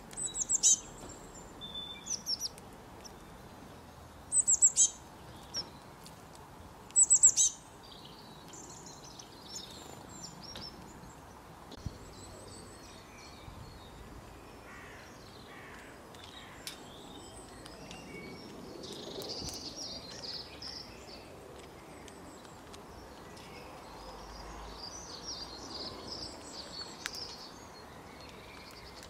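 Wild birds singing: four short, loud, high twittering phrases in the first eight seconds, then softer, quieter twittering later on, over a faint outdoor hiss.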